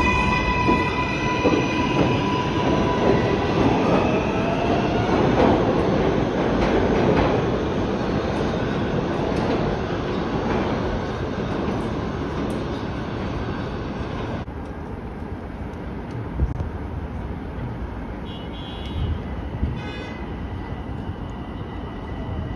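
Electric train running on the rails: a steady high motor whine at first, then a heavy rumble that is loudest about five to seven seconds in and eases off, dropping suddenly in level past the midpoint.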